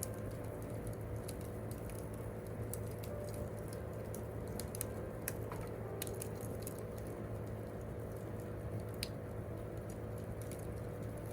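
Wood campfire crackling, with scattered sharp pops over a low steady hum.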